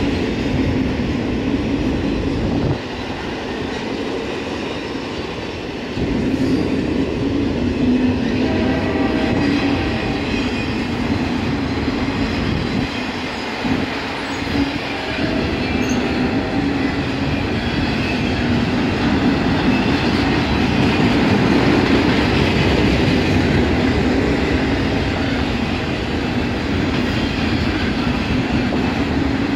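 Autorack freight cars rolling past, the steel wheels running over the rails in a steady, continuous rumble that eases a little about three seconds in and picks up again at six.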